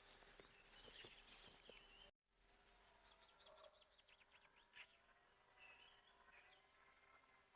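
Faint outdoor ambience with birds chirping and trilling. The sound drops out briefly about two seconds in.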